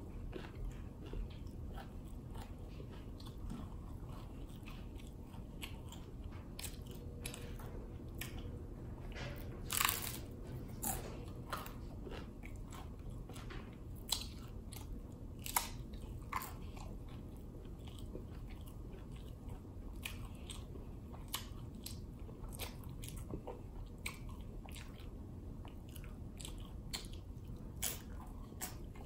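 A person biting and chewing crunchy hard-shell tacos, with irregular crisp crunches; a few louder crunches come about ten seconds in, at fifteen seconds and near the end.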